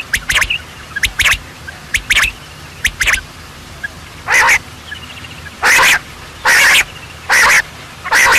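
Birds calling: a few short, sharp calls in the first three seconds, then a run of loud, harsh calls about once a second.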